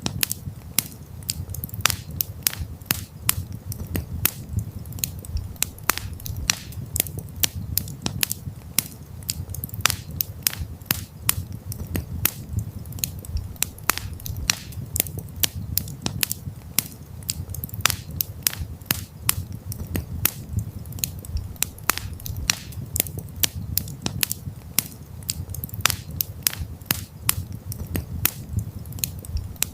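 Campfire crackling: frequent irregular sharp pops and snaps over a steady low rumble of the burning wood.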